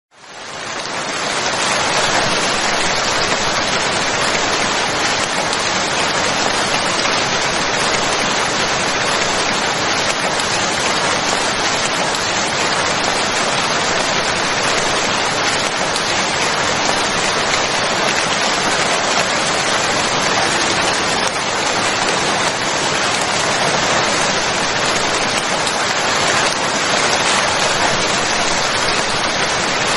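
Steady rain falling, a dense even hiss of drops that fades in over the first couple of seconds and then holds steady.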